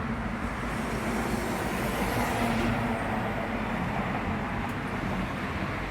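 Steady outdoor rumble like distant road traffic, swelling a little about two seconds in.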